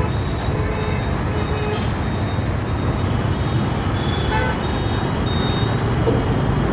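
City road traffic: vehicle engines running steadily in a low rumble, with a short horn-like tone about four seconds in.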